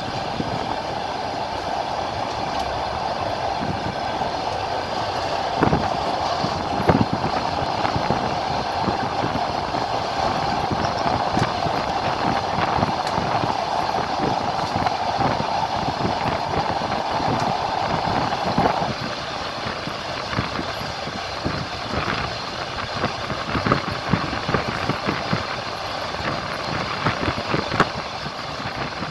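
Passenger train running along the track, wheels clattering over rail joints with irregular clicks and knocks. A steady hum over the rolling noise stops about two-thirds of the way through.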